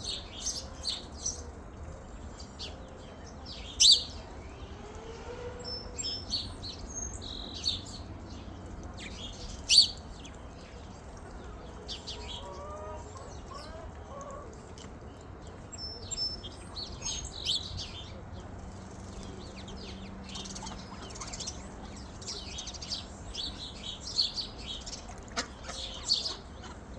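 Small birds chirping and calling repeatedly, with two sharp, louder chirps about four and ten seconds in and faint lower calls now and then underneath.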